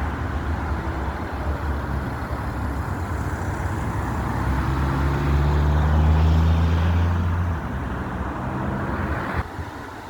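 A car engine pulling away under acceleration, its note climbing steadily and loudest about two-thirds of the way in before dropping off, over general road noise; the sound level drops abruptly near the end.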